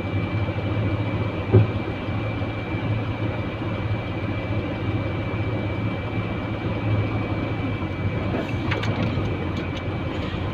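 Truck engine running steadily, with a low hum and a thin constant whine. There is a single sharp knock about one and a half seconds in and a few light clicks near the end.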